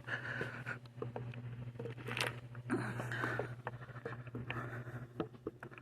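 Rustling and clicking of snack-seed bags being handled and picked up from a shelf, over a steady low hum.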